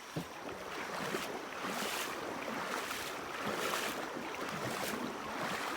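Steady rush of flowing stream water, with a few soft knocks or splashes on top.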